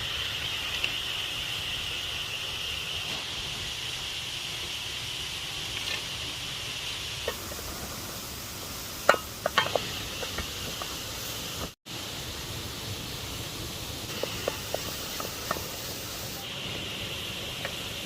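Steady outdoor hiss of a nearby waterfall with a high, even buzz over it, and a few sharp clicks and knocks near the middle and again later.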